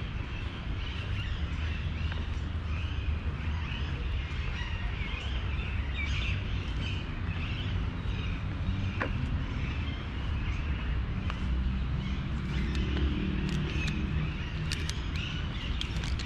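Birds chirping over a steady low rumble, with a few sharp clicks near the end.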